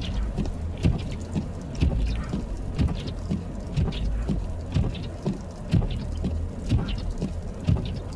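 A car driving through snow: a steady low engine and road rumble, with a regular knock about once a second.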